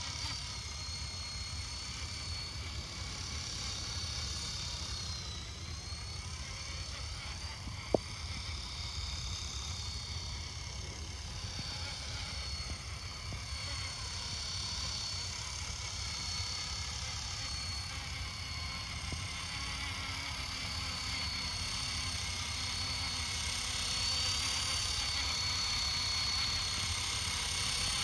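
Electric radio-controlled helicopter in flight: a steady high motor-and-rotor whine that wavers up and down in pitch as the throttle changes, over wind noise on the microphone. A single sharp click comes about eight seconds in, and the whine grows louder near the end.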